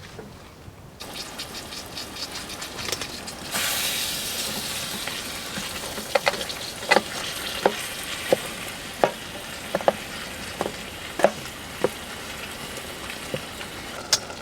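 Food frying in a hot pan, the sizzle rising suddenly about three and a half seconds in, followed by a scatter of sharp pops.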